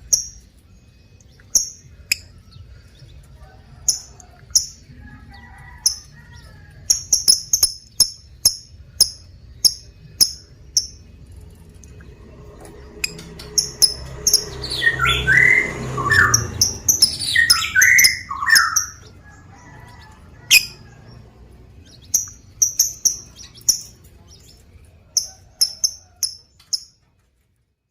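Lovebird calling: short, sharp, high chirps, singly and in quick runs. About halfway through comes a louder stretch of lower calls that slide in pitch.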